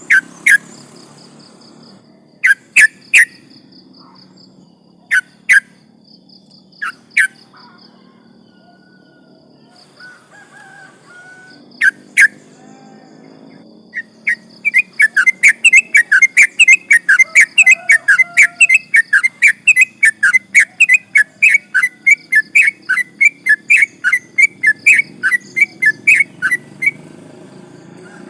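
Yellow-vented bulbul (trucukan) singing: short loud calls, mostly in pairs, then a long fast run of repeated chattering notes, about three or four a second, lasting some thirteen seconds. This rapid run is the 'ropel panjang' that is prized in a singing trucukan.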